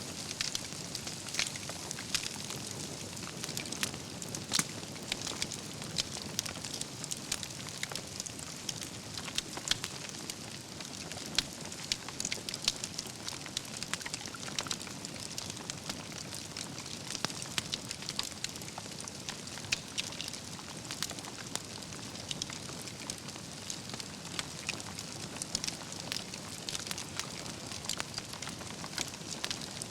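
Wood campfire burning steadily, with a constant low hiss and frequent irregular crackles and pops from the burning logs.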